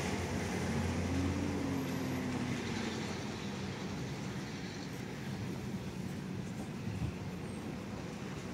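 Steady road and engine noise inside the cabin of a moving Haval M6, with a faint tone that rises and then falls away a second or two in.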